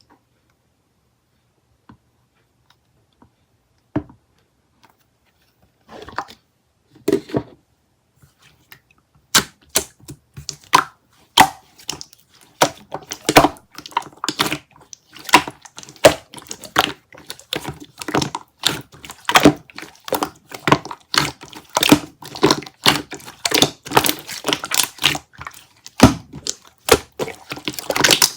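Irregular clicking and knocking of hard objects being handled: a few isolated knocks at first, then a busy, uneven run of clicks and taps from about nine seconds in.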